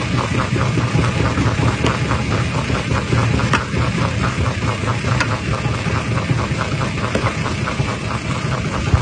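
Jaw crusher running under load: a steady low machine drone with continuous rapid clattering of rock, and a few sharper cracks as stones break.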